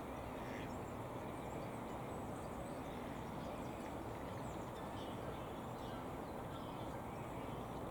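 Steady outdoor rush of background noise with faint, scattered bird calls over it.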